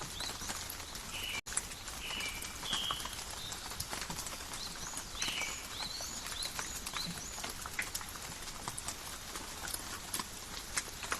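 Steady rain in a forest, with many close drops ticking on leaves and birds giving short high chirps now and then. The sound drops out for a moment about a second and a half in.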